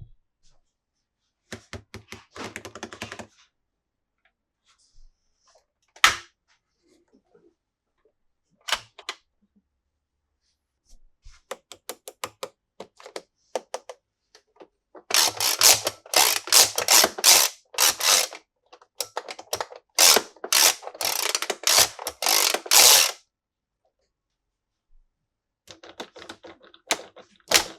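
Unboxing handling noise from toy packaging: short runs of rapid clicking and a single sharp knock, then a long stretch of loud, rasping bursts several times a second in the second half, as cardboard and plastic are worked open.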